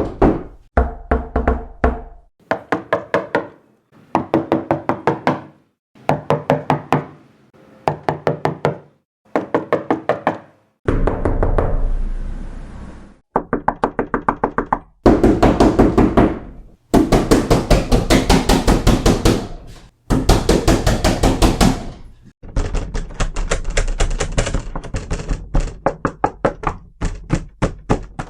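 Door-knocking sound effects: one knocking pattern after another, first short groups of several quick knocks with brief pauses between them, then longer runs of rapid knocking, and near the end a steady run of fast, lighter knocks.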